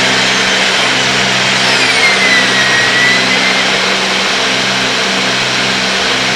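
Cessna 310's two six-cylinder piston engines and propellers droning steadily at pattern power, heard in the cabin through the intercom. A faint whistle glides down in pitch about two seconds in.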